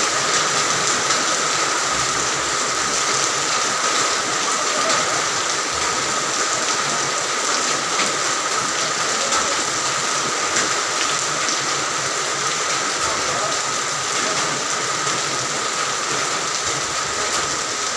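Rain falling steadily, an even unbroken hiss with no distinct drops or pauses.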